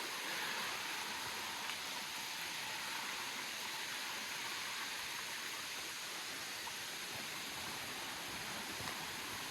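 Steady rush of falling and flowing water from a waterfall and river in a gorge, an even hiss with no breaks.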